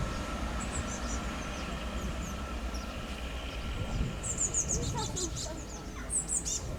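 Small birds chirping in quick, high-pitched runs, loudest about four seconds in and again near the end, over a low steady rumble.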